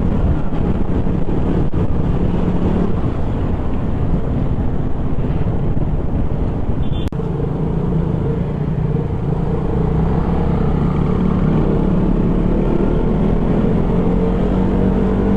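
A KTM Duke 200's single-cylinder engine running steadily while the motorcycle is ridden, with a brief drop in level about seven seconds in.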